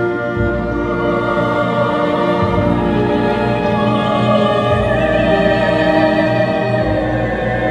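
Operatic singing with vibrato over classical orchestral accompaniment. The voice holds long notes that swell in the middle of the passage.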